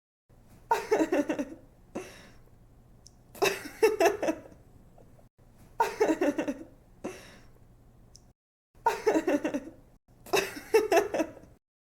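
A young woman laughing in five short giggling bursts about two and a half seconds apart, with a quick breath after some of them, over a faint low hum.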